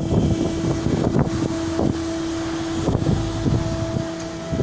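Machinery running with a steady whine, and wind buffeting the microphone with irregular low thumps.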